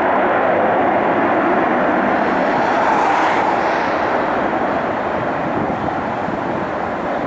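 Tupolev Tu-134UB-L's twin Soloviev D-30 turbofan engines running at takeoff power, a steady jet noise that swells about three seconds in and then slowly eases.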